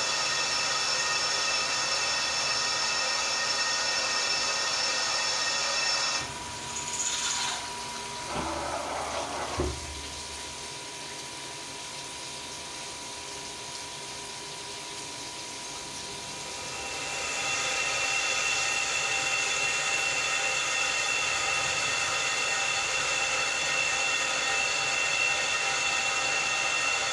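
CNC milling machine running with a steady whine of several fixed tones. About six seconds in it drops away, followed by a short mechanical clatter and a sharp click. The steady whine picks up again about seventeen seconds in.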